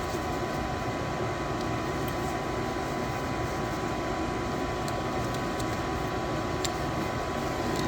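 A 90% gas furnace running with a steady mechanical hum after cycling back on, with a few faint clicks. This is a furnace that keeps short-cycling, switching on and off.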